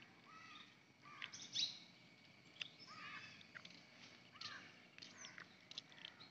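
Garden songbirds chirping and calling faintly: a scatter of short sharp chirps and brief arched whistled notes from several birds.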